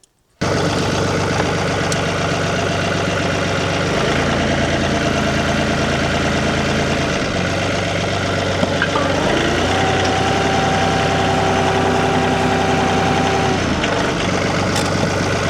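Tractor engine running steadily, its note shifting a few times. About ten seconds in, a steady whine joins for roughly four seconds and then stops.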